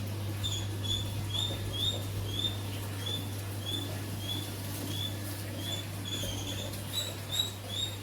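A small animal's high chirps, repeated about twice a second, over a steady low hum.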